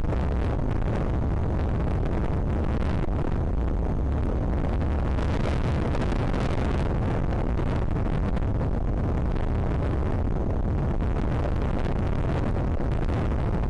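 Strong wind blowing across the microphone: a steady heavy low rumble, with a brighter hiss rising in gusts around the middle and again near the end.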